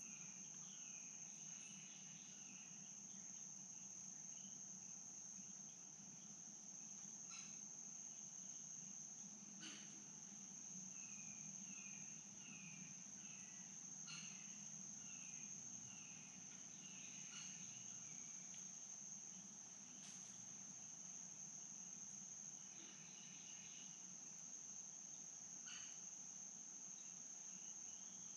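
Faint, steady high-pitched insect drone, cricket-like, with a run of short repeated chirps below it and a few sharp clicks.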